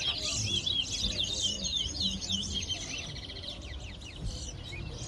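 Chestnut-bellied seed finch (towa-towa) singing: a fast, twittering run of high chirps and trills that thins out over the second half.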